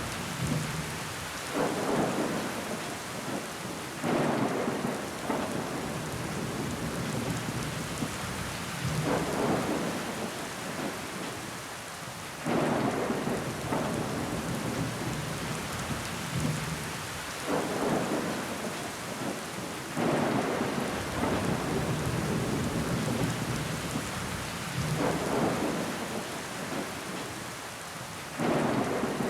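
Steady rain falling on a window pane, with sudden surges every few seconds where it grows louder for a second or two.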